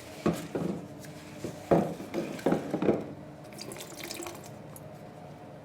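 Water splashing and trickling in a sink in several short bursts, with a fainter patter near the middle and a steady low hum underneath.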